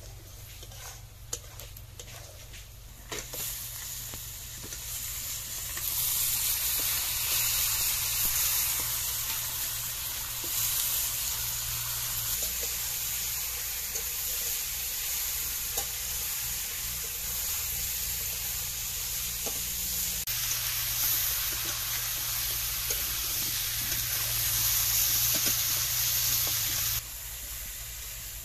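Fish pieces frying in hot oil and spice paste in a metal kadai, with a metal spatula stirring and scraping the pan. A steady sizzle starts about three seconds in and grows louder, then drops away suddenly near the end.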